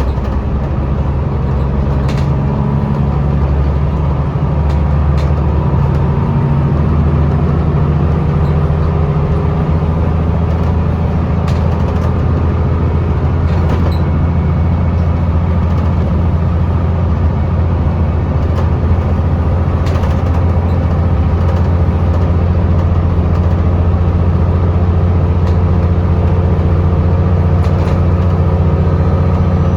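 Scania L94UB bus's diesel engine running under way, heard from on board, its low note shifting about three seconds in and then holding steady as the level slowly rises. Occasional light clicks and rattles over the engine.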